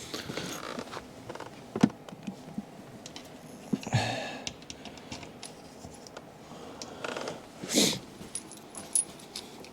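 Small metal bolts clinking and rattling as they are handled and dropped into place on an engine's intake manifold, with a sharper click about two seconds in and short rattles near the middle and end.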